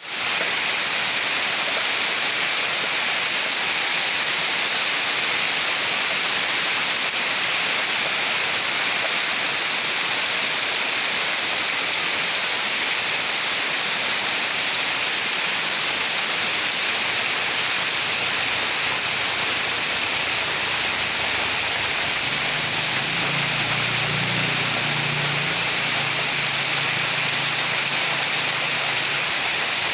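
Steady rain falling, an even hiss throughout. A low hum joins in about three-quarters of the way through and fades out shortly before the end.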